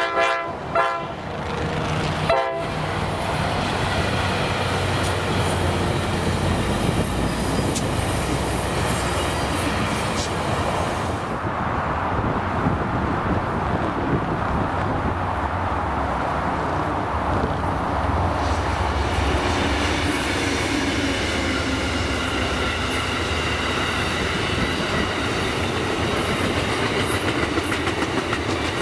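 Train sounding a few short horn blasts in the first couple of seconds, then rolling past with a steady rumble of wheels on the rails.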